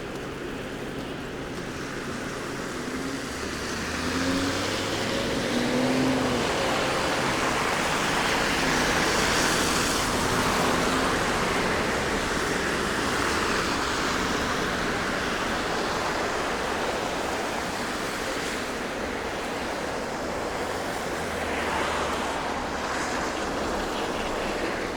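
Street traffic: a car drives past on a snowy street. Its engine hum and tyre noise swell about four seconds in and slowly fade after the middle.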